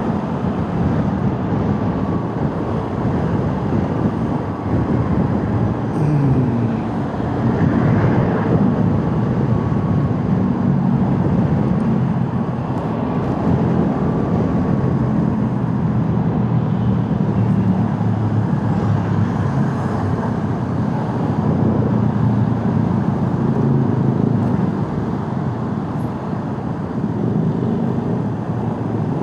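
Motorcycle engine running under way with steady road and wind noise, its pitch rising and falling with the throttle.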